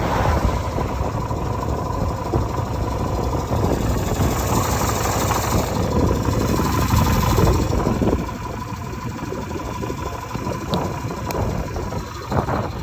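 Yamaha Virago 125's air-cooled V-twin engine running, louder for about the first eight seconds, then settling to a quieter, steady level.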